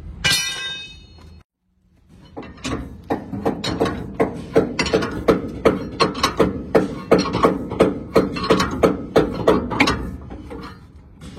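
Hammer striking steel in quick, regular blows, about three a second, for several seconds, each blow ringing briefly. A short high metallic ring comes near the start.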